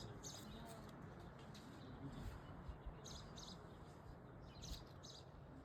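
Small birds chirping faintly: short high chirps, mostly in pairs, repeating every second or two over a faint background hum.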